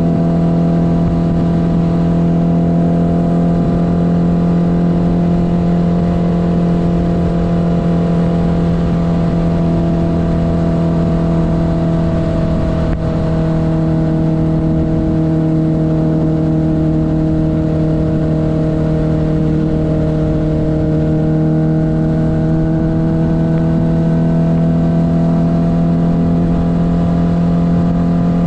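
1972 Honda CB500's air-cooled inline-four engine running steadily under way at cruising speed, its pitch easing down slightly a couple of times and coming back up.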